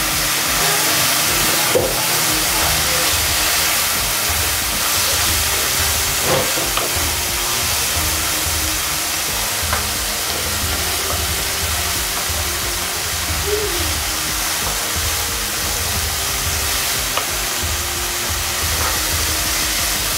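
Moong dal, onion and spice mixture sizzling in a nonstick kadai over a medium gas flame, a steady frying hiss, with a few light knocks and scrapes of a wooden spoon stirring it.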